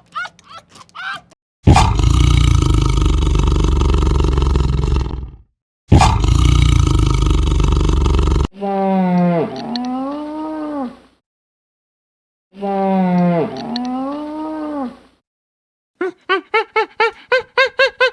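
A sequence of different farm animal calls with short gaps between them. First come two long, loud, harsh calls, then the same pitched call twice, its pitch arching and falling. Near the end there is a fast series of short repeated calls.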